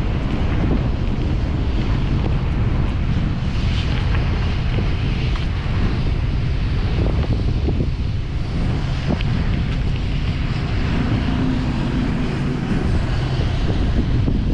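Steady wind noise buffeting the microphone of a camera on a moving bicycle, a dense low rush without letup.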